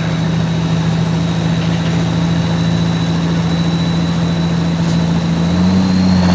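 Farm tractor diesel engine running at steady high revs with a thin high-pitched whine over it; near the end the revs and the whine rise.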